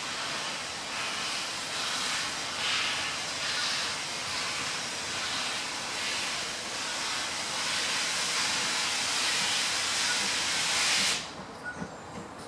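Steam locomotive venting steam in a loud, steady hiss that cuts off suddenly about eleven seconds in.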